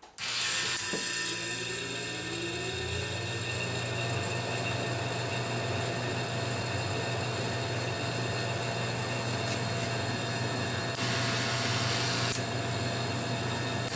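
A Dixie Narco can vending machine switching on: its machinery starts abruptly and runs steadily with an electric hum and several steady whining tones. The high end brightens for a second or two near the end.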